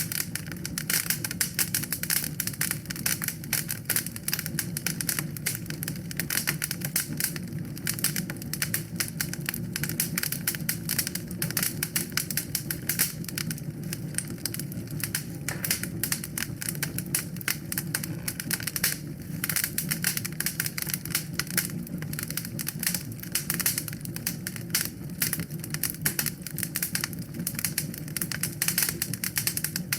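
Wood fire burning in a fireplace, with dense, irregular crackles and pops over a steady low rumble of flames.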